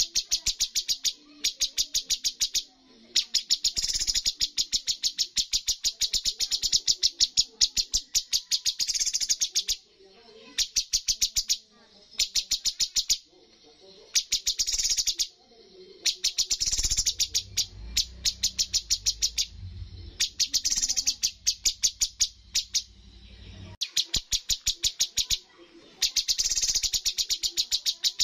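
Cucak cungkok singing in rapid-fire trills: fast trains of sharp, high notes in bursts a second or two long, separated by short pauses.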